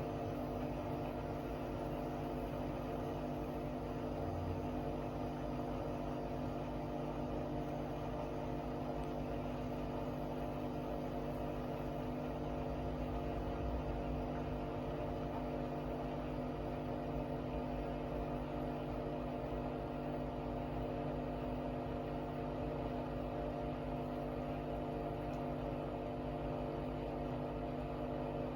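Hoover Axi washing machine in its final spin at a steady 1600 rpm: the drum motor holds an even whir made of several steady tones over a low rumble, with no change in speed.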